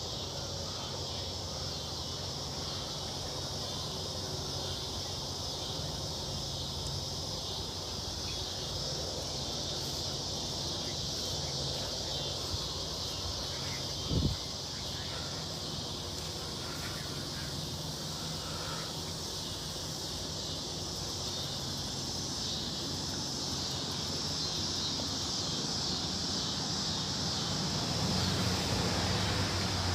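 Steady chorus of insects, likely crickets, over a low steady hum, with a single thump about halfway through.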